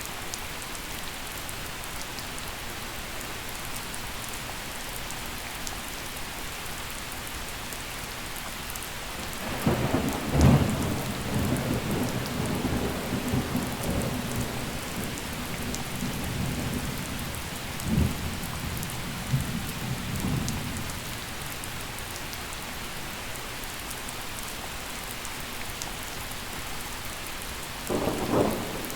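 Gentle, steady rain falling, with thunder rolling in about a third of the way through: a loud crack-and-rumble that keeps rumbling for about ten seconds, flaring again partway, then a shorter burst of thunder near the end.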